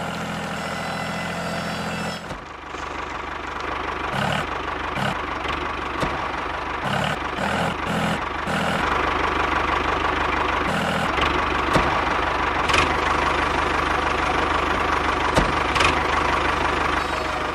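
A motor running steadily, with irregular knocks and clicks through its middle stretch; its sound changes about two seconds in and grows steadier and louder later on.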